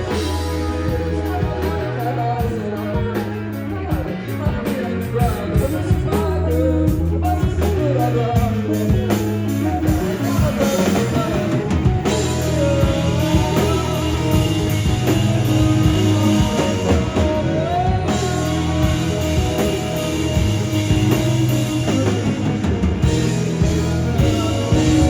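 Rock band playing live: drum kit and guitar with a singing voice, a loud, dense mix with a steady drum beat.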